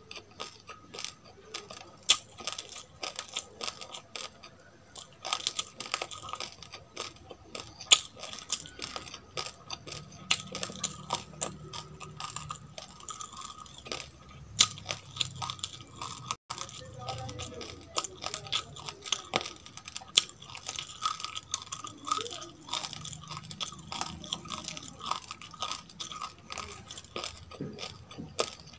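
Close-miked chewing of dry roasted rice grains: a rapid, irregular run of sharp crunches and crackles, with a few louder cracks among them.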